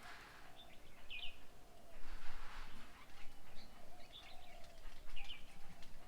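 Wild birds calling: a string of low, repeated cooing notes throughout, with short high chirps about a second in and again near the end. A soft rushing noise swells briefly about two seconds in.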